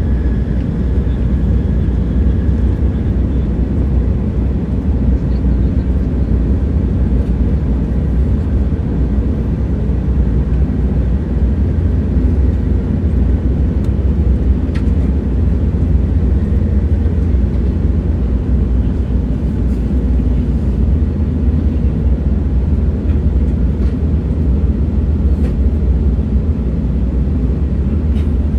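Steady low rumble of a moving train, heavy in the bass, with a few faint clicks.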